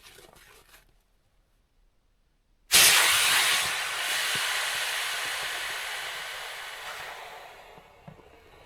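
A sudden loud hiss that starts about three seconds in and fades away over about five seconds.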